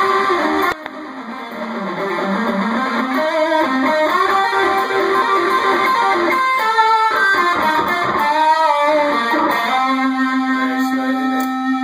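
Electric guitar with Seymour Duncan Blackout active pickups, played lead through a small practice amp on the bridge pickup: quick runs of single notes, then one long held note from about ten seconds in.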